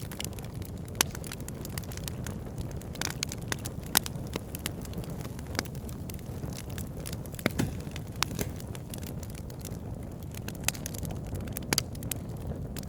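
Wood campfire crackling, with irregular sharp pops and snaps, the loudest about a second in, around four seconds and around seven and a half seconds, over a steady low rumble.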